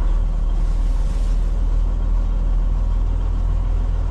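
Semi truck's diesel engine running, a steady low rumble.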